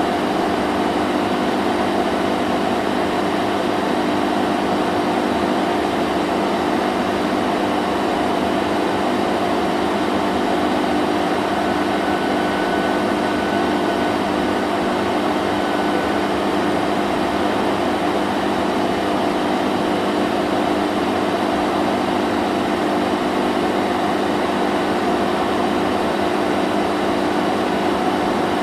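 Vacuum cleaner running steadily: an even motor hum with a rushing air noise, unchanging throughout.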